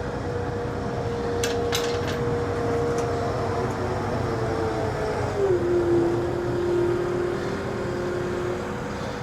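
Diesel machinery running steadily, with a whine that drops lower about five and a half seconds in and rises again near the end. Two short clicks about a second and a half in.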